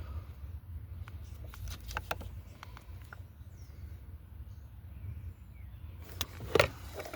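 Scattered light clicks and taps of parts being handled on an engine, with a louder knock about six and a half seconds in, over a low steady hum. Faint bird chirps come in around the middle.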